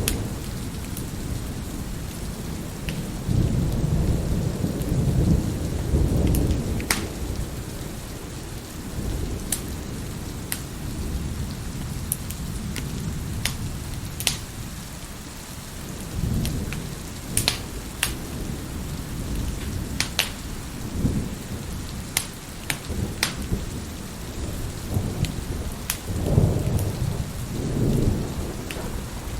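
Steady rain with low rolling thunder, strongest a few seconds in and again near the end, while a wood fire crackles with scattered sharp pops.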